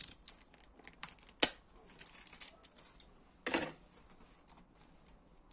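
Small engine parts and tools being handled on a workbench: a few sharp clicks and knocks, then a short clatter about three and a half seconds in.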